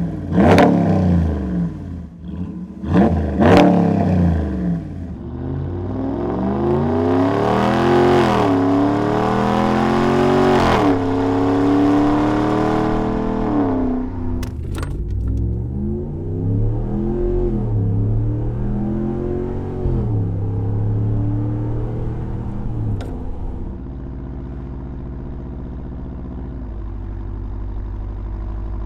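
Ram 1500's 5.7L Hemi V8 through an AWE 0FG straight-through dual exhaust, revving: two quick, sharp throttle blips, then a long rev that climbs for several seconds and falls back, a few shorter revs, and it settles into a steady low idle near the end.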